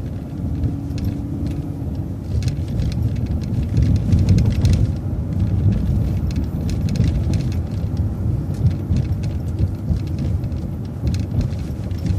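City transit bus driving, heard from inside: a steady low engine and road rumble with constant rattling from the body and fittings. A steady engine tone fades about two seconds in.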